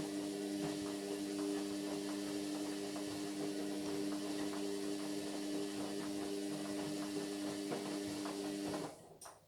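Indesit MyTime washing machine running a steady electrical hum with a water-like hiss and small clicks. The hum cuts off suddenly near the end, followed by a single click.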